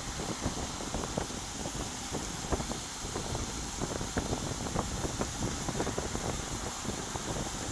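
Wind buffeting the microphone of a bicycle-mounted action camera while riding on the road: a steady rush broken by irregular gusty thumps.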